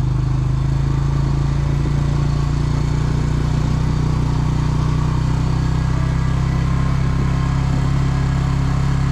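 An engine idling steadily at an even speed, with a low, quickly pulsing hum.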